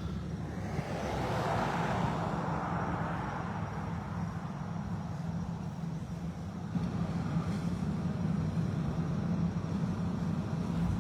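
Steady low hum of an idling vehicle engine. A passing car swells and fades over the first few seconds.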